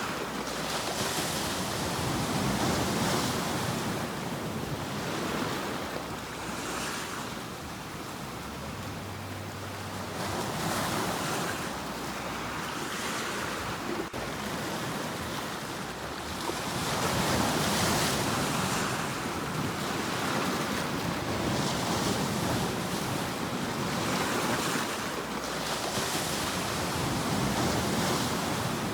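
Sea waves breaking and washing on the shore, swelling and ebbing every few seconds.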